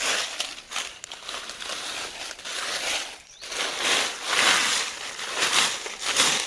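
Irregular rustling and crunching of leaves and plant material being handled or pushed through, in uneven surges with a longer, louder stretch a little past the middle.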